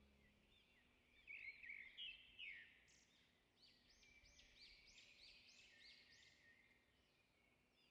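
Faint outdoor birdsong: a small bird repeating short, arched chirps, a little louder in the first few seconds, then about two a second.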